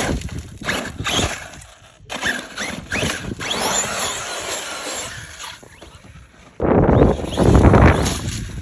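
Arrma Fireteam 6S RC car's electric motor whining up and down in pitch as it is driven and throttled. About two-thirds of the way in, a sudden loud rushing noise takes over.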